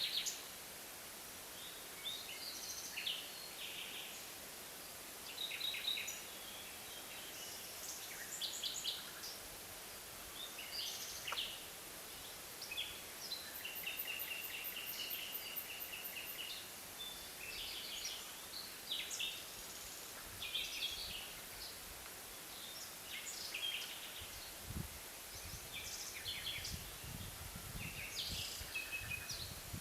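Forest ambience with several small birds calling and chirping in short phrases throughout, and one bird giving a steady trill about halfway through. Low rumbling disturbances come in during the last few seconds.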